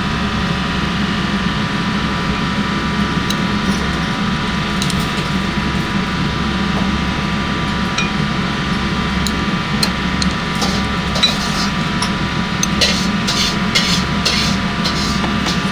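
Wok stir-frying fried rice over a strong gas burner, which keeps up a steady roar with a low hum. Toward the end a metal ladle scrapes and clanks against the wok in a quick run of strokes.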